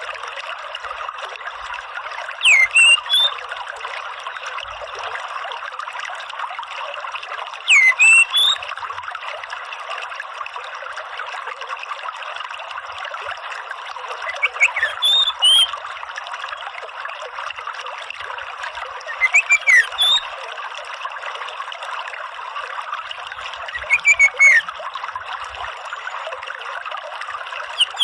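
Orange-headed thrush giving five short, loud phrases of quick sweeping high notes, a few seconds apart, over a steady trickle of running water.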